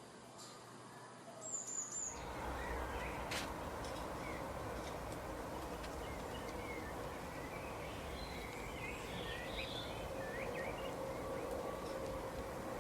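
Small birds chirping in short, scattered calls over a steady outdoor background noise that comes in suddenly about two seconds in.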